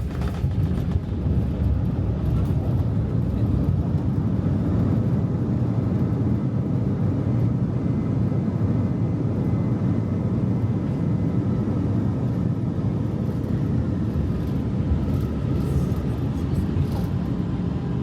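Airbus A319 cabin noise during landing: a steady low rumble of the jet engines and rushing air, with a faint high whine.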